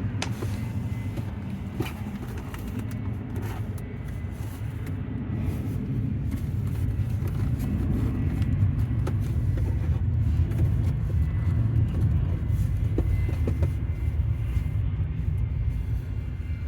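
Low, steady rumble of distant jet aircraft engines, swelling toward the middle and easing off again, with a faint steady high tone and a few light clicks.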